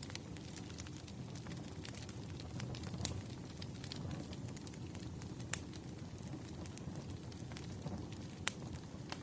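Campfire crackling: a steady low rush of burning wood with irregular sharp pops and snaps, a few louder ones, one about halfway through and another near the end.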